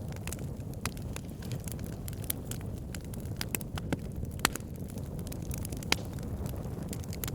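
Wood fire burning: a steady low rumble of the flames with frequent irregular sharp crackles and pops from the logs, a few louder pops about four and a half and six seconds in.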